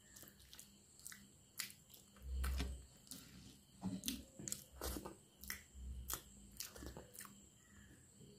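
Close, wet mouth sounds of chewing a mouthful of soft rice and dal eaten by hand: many short smacks and squelches, with a few dull low thumps, the loudest about two and a half seconds in.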